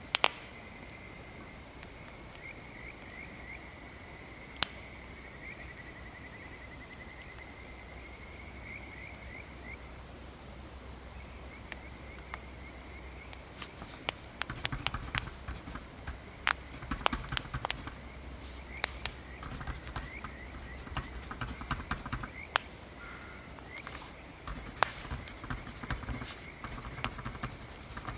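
Crackling bonfire ambience with sharp scattered pops, under a thin insect chirring during the first ten seconds. From about halfway the pops and rapid light scratching and tapping grow busier, like writing on paper.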